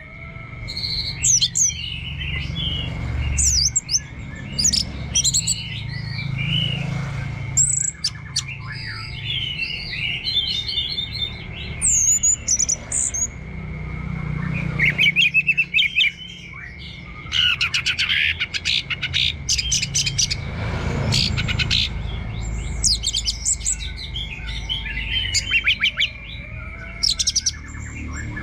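Orange-headed thrush singing a long, varied song of rapid chirps, whistles and fast trills in repeated bouts, over a steady high tone and a low rumble.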